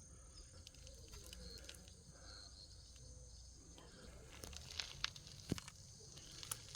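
Quiet outdoor background: a faint steady high-pitched hum with scattered light clicks and taps, and a few sharper clicks about four and a half to five and a half seconds in.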